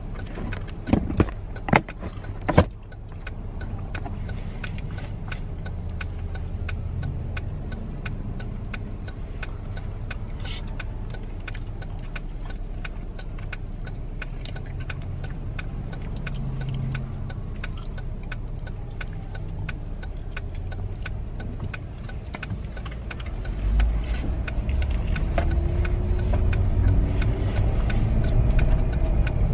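Car cabin rumble, low and steady, with a few sharp clicks a second or two in and faint ticks scattered throughout. The rumble grows louder about 24 seconds in.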